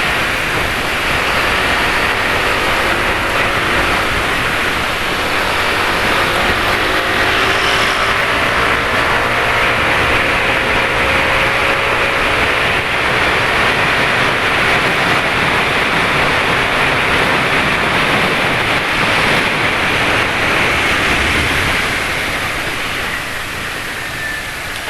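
Motorbike traffic heard from a moving scooter: a steady rush of wind and road noise with the engine notes of nearby motorbikes rising and falling, easing off a little near the end.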